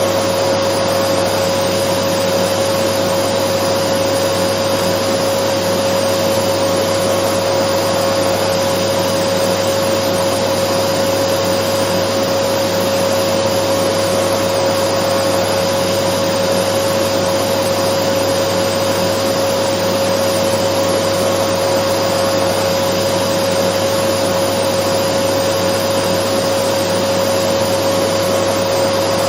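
Dyson vacuum cleaner running continuously: an even rushing noise with a steady, unchanging whine.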